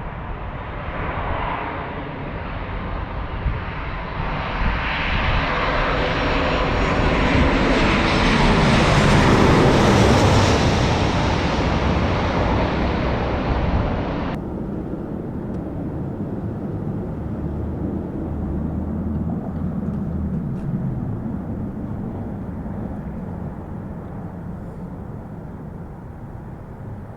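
Boeing 737-800's CFM56 turbofan engines passing close on final approach to land, the jet noise building to a peak about ten seconds in. About fourteen seconds in, the high hiss cuts off suddenly, leaving a lower rumble that fades away.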